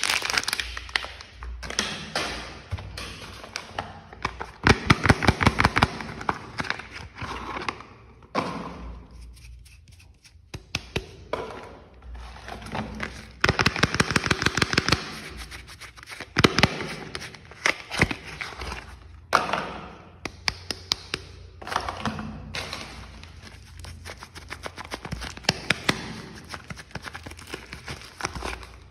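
Bars of soap being unpacked: wrapping crinkling and rustling, broken by runs of quick clicks and taps, with a few pauses between handlings.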